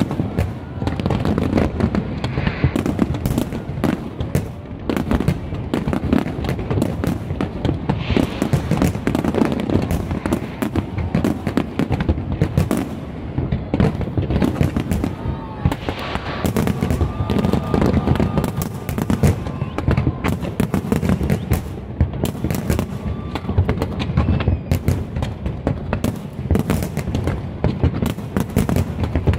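Fireworks display: shells bursting in rapid, continuous succession, with overlapping bangs and crackling throughout.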